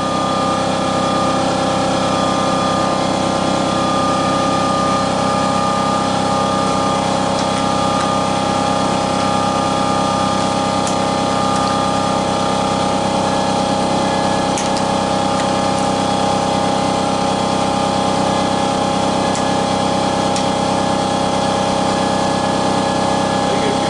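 A machine running with a steady, unchanging hum made of many held tones, with a few faint light clicks over it.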